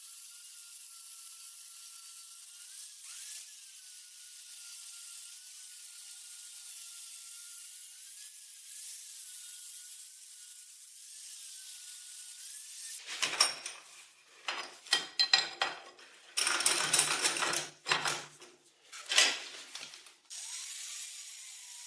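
A small power tool running with a faint steady whine, then several loud, irregular bursts of the tool working against metal over about seven seconds, before it settles back to the whine near the end.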